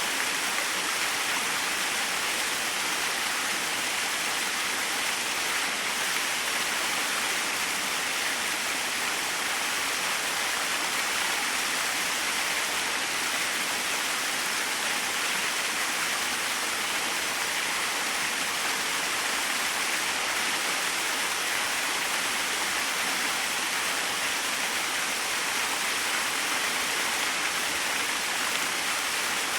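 A small waterfall running: a steady, even rush of falling water.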